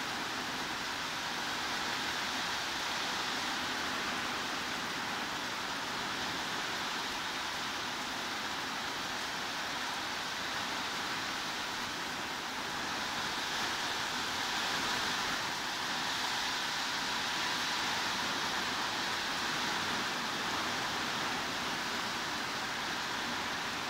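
Steady heavy rain: a dense, even hiss of falling water with no separate drops standing out, swelling a little in the middle.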